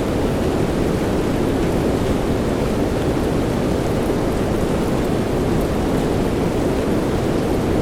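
Steady soft rain: an even, unbroken hiss with most of its weight low down, and a few faint drop ticks on top.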